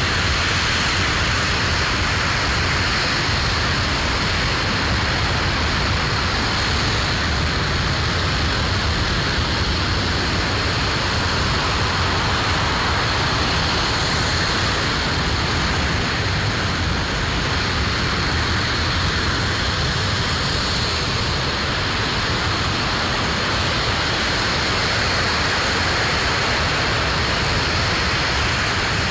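RS-25 liquid-hydrogen/liquid-oxygen rocket engine firing on the test stand: a steady, unbroken roar at a constant level, with a thin high tone held over it.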